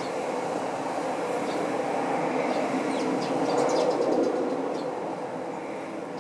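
Rumble of a passing vehicle, swelling to its loudest about four seconds in and then fading, with short sparrow chirps over it.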